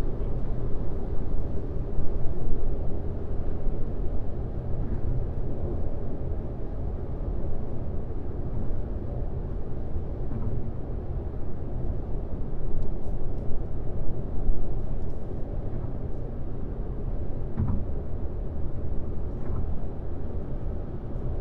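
Car driving on a highway: a steady rumble of road and tyre noise.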